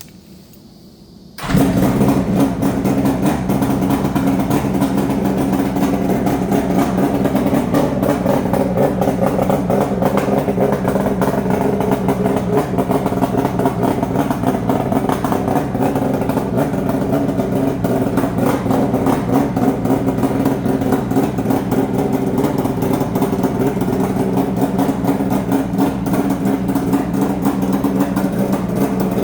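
Suzuki GT750's water-cooled two-stroke three-cylinder engine, breathing through a Zenshin collector exhaust, firing up about a second and a half in and then idling steadily.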